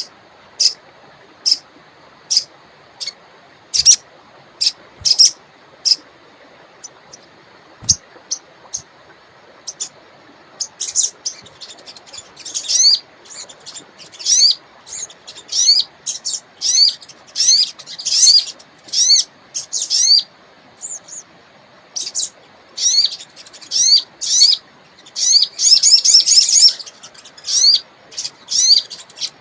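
A wild sogon songbird calling in short, high chirps, scattered at first, then in quick, rapid-fire trilled phrases from about eleven seconds in. A faint, steady rush of river water runs underneath.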